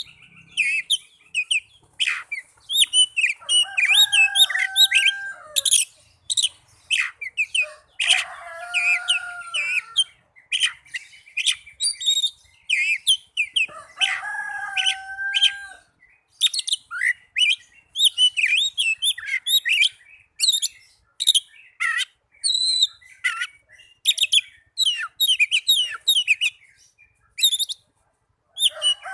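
Oriental magpie-robin (kacer) song: a fast, varied run of high whistles, chirps and trills with hardly a pause. Three longer, lower drawn-out calls come in about four, eight and fourteen seconds in.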